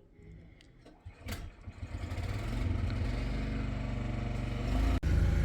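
An engine starts up about a second and a half in and settles into a steady low idle.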